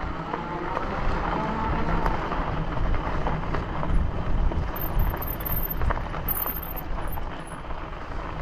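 Wind rushing over the microphone with steady rolling noise from a bicycle ride on a paved path.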